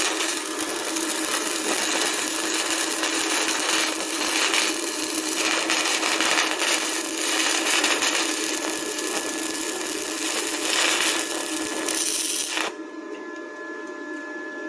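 Stick welding arc crackling and sizzling steadily as a 6013 rod burns at about 32 amps, until the arc is broken and the sound cuts off sharply near the end.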